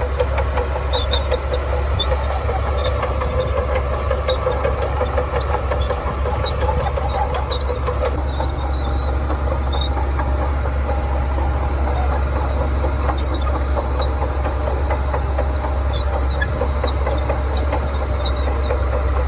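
Shantui bulldozer's diesel engine running steadily under load, with light scattered metallic clicks over it.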